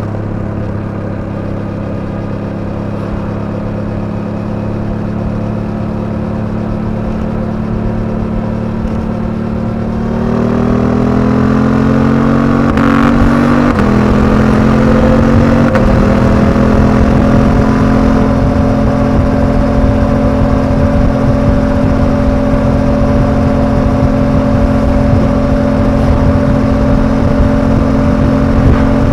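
Suzuki V-Strom 800DE's parallel-twin engine running steadily while riding. About a third of the way in it accelerates, rising in pitch with two quick upshifts, then runs on louder at a steady higher note.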